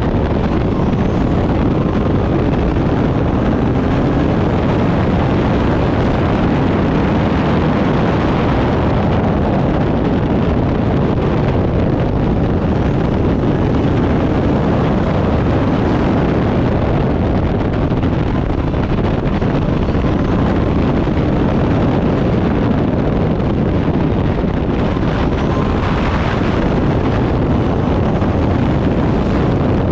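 Turbocharged Backdraft Cobra race car running hard at racing speed, its engine note steady under heavy wind noise on the microphone.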